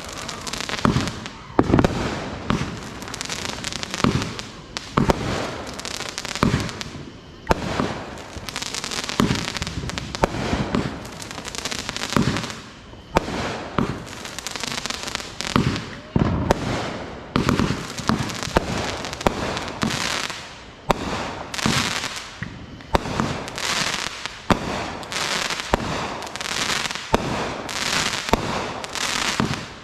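Consumer fireworks going off in quick succession: many sharp bangs, several a second, over a steady crackling hiss, with no break.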